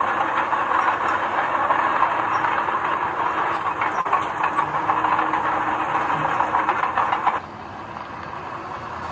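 Heavy construction machinery at work, a loud, dense rattling noise that drops off suddenly about seven seconds in to a quieter steady rumble.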